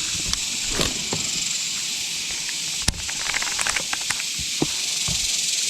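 Steady high-pitched hiss, with a sharp click about three seconds in followed by a quick run of light ticks.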